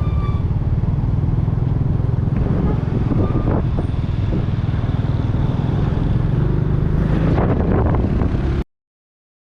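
Steady low rumble of a vehicle under way, with heavy wind buffeting on the microphone; it cuts off suddenly near the end.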